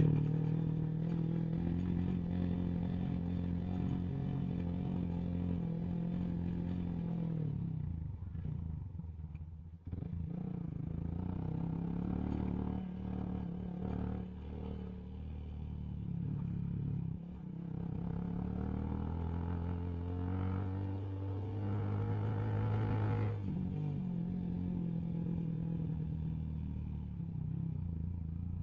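Motorcycle engine running while riding over a rough road, easing off about eight seconds in with a short dip, then pulling again, with another change in engine note near the end.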